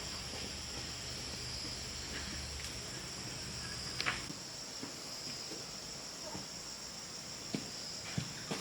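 Steady high-pitched chirring of insects, with a few light clicks or knocks scattered through it, one about halfway through.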